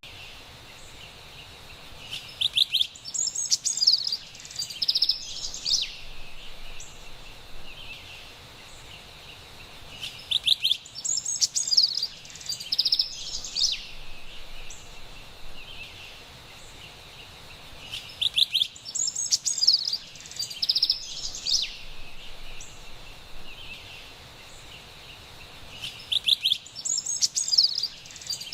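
Carolina wren singing: a bright burst of rapid, repeated high notes lasting about three seconds, coming back about every eight seconds, four times in all, over a steady faint background hiss.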